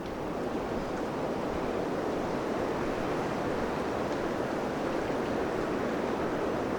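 Steady rush of wind through the crowns of a pine and birch forest, an even surf-like noise.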